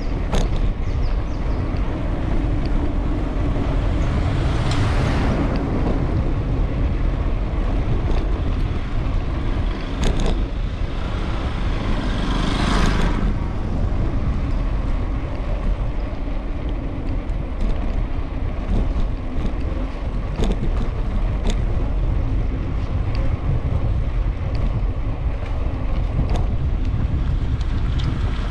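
Street traffic heard from a moving bicycle, over a steady low rush of wind on the microphone. Vehicles pass close about five seconds in and again around thirteen seconds in.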